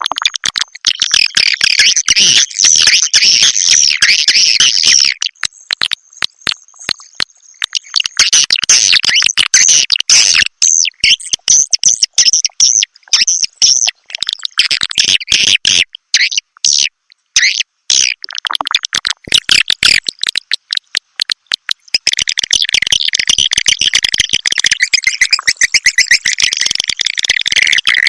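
Recorded swiftlet calls played as a lure to draw swiftlets into a nesting house: dense, high, rapid chittering and twittering of many birds, in long stretches broken by short pauses.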